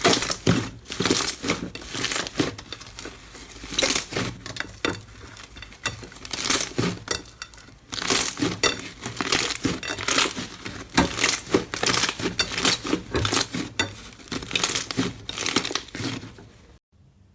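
Slime squeezed and pressed by hand, giving dense crackling, popping clicks and crunches in uneven clusters. It cuts off abruptly near the end.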